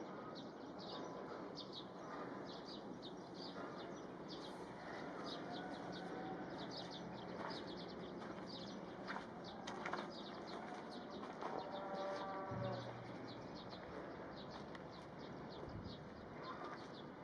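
Outdoor ambience: a steady series of short, high chirps, two or three a second, with a couple of faint pitched animal calls in the distance.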